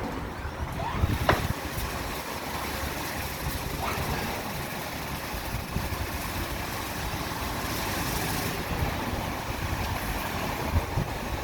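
Washtec SoftCare Pro rollover car wash running: a steady rush of water spray and machinery over a low rumble, with a hissing spray that comes in about a second in and eases off near the end, and a sharp click just after it starts.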